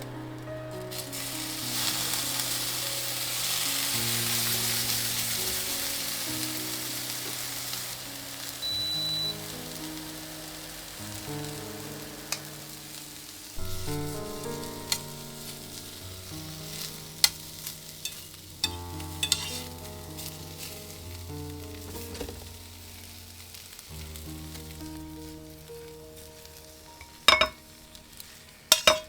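Food sizzling in a hot pan, loudest for the first several seconds and then dying down, with clicks and scrapes of a utensil as it is stirred and a few sharp clinks near the end. Soft background music with slow held notes plays underneath.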